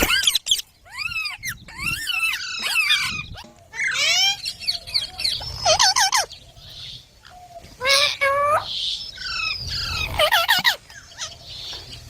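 Baby green parrots (Indian ringneck) chirping in quick runs of sweeping, rising and falling calls, in several bursts with short pauses between.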